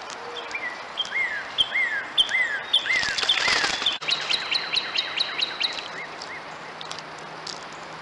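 Wild birds calling: repeated short chirps that rise and fall, then a fast run of high notes from about four seconds in. A brief rushing flutter comes about three seconds in.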